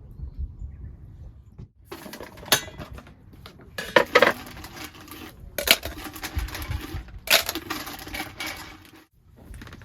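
Clinking and clattering of metal and dishware being handled, with several sharp clinks over a few seconds.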